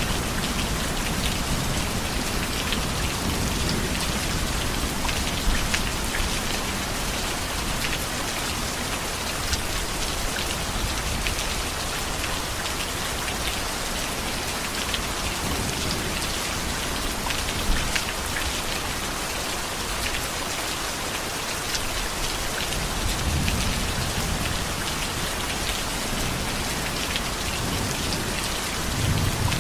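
Heavy rain falling steadily, a dense hiss with fine drop patter, overlaid by low rolls of thunder at the start, again about three-quarters of the way through and near the end.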